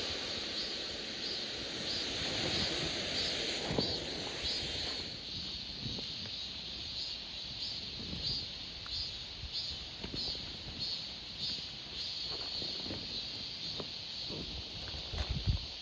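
Outdoor ambience: a steady high-pitched pulsing about twice a second, with a hiss that fades about five seconds in and scattered light taps.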